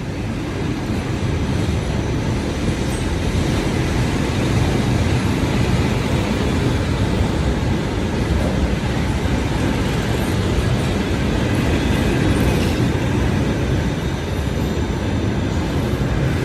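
Russian suburban electric train (elektrichka) running, a steady noise of its wheels on the rails.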